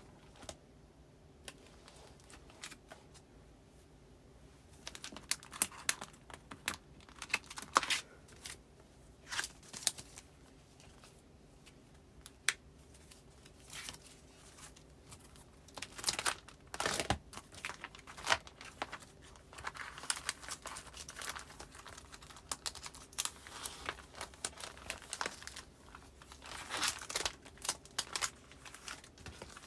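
Postcards and other paper goods being handled and slid into a filing binder. Irregular bursts of crinkling and rustling come with light clicks, busiest near the middle and near the end.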